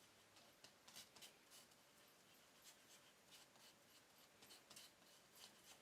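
Very faint, irregular light scrapes and ticks, close to silence: sawdust being stirred into wood glue to make a matching wood filler.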